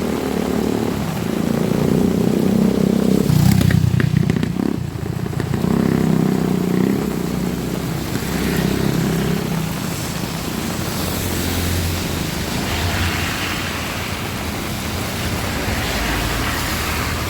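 Strong wind buffeting the microphone in gusts, a loud uneven rumble, over the hiss of heavy rain.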